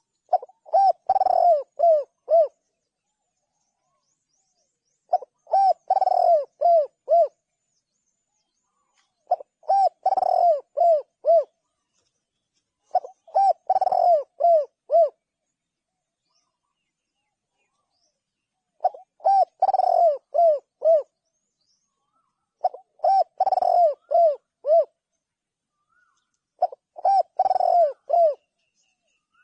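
Spotted dove cooing: seven phrases, one about every four seconds, each a quick run of several coos in which an early note is drawn out longer than the short ones after it.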